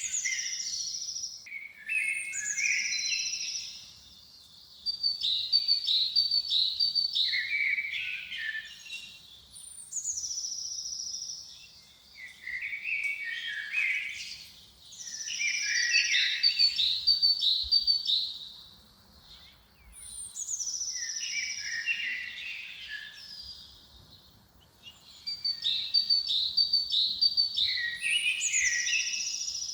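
A songbird singing the same song phrase over and over, about every five seconds. Each phrase is a few seconds of quick high notes, followed by a short quiet gap.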